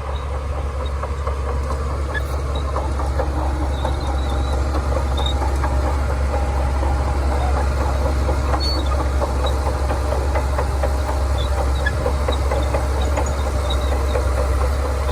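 Shantui crawler bulldozer's diesel engine running steadily with a deep low hum, over a dense rattling clatter of its tracks and a few faint high squeaks.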